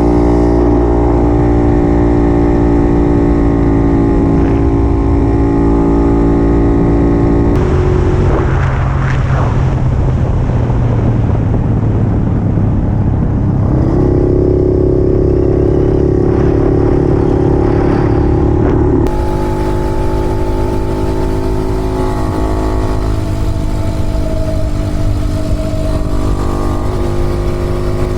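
Two-stroke engine of a 1950s Puch 250 TF motorcycle running at steady revs under way, with road and wind noise. The engine note holds steady and then jumps to a new pitch a few times, with a noisier stretch in the middle.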